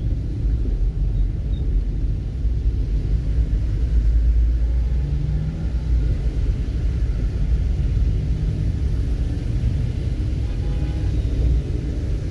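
Steady low rumble with no distinct events, the kind of noise heard from a moving vehicle or wind on the microphone.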